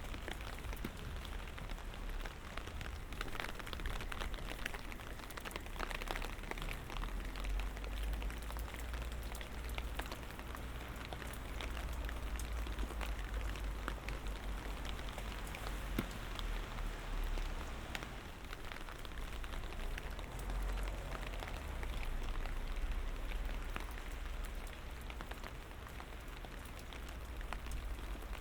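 Light rain falling, many separate drops ticking on nearby surfaces, over a steady low rumble.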